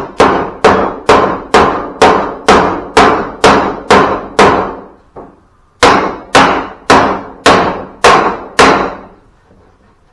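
Hammer blows beating a bent mower part back into shape, about two strikes a second: a run of about ten, a short pause near the middle, then about six more.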